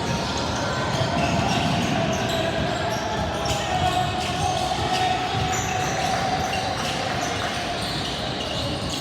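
Basketball game in a gym: a ball bouncing on the hardwood court, with short high squeaks and background voices echoing through the hall.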